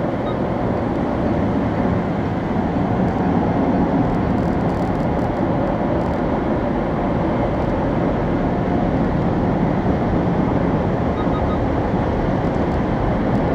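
Car wash machinery running: a loud, steady rushing of spray and equipment, with faint rapid beeping near the start and near the end.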